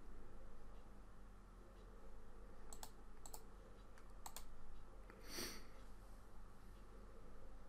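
Faint sharp clicks at a computer, three quick pairs about three to four and a half seconds in, followed by a brief soft hiss, over a low steady hum.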